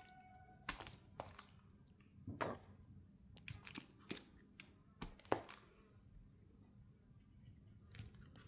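Rubber stamp being pressed down onto strips of tape on a table: light, scattered taps and clicks, the sharpest a little after five seconds in.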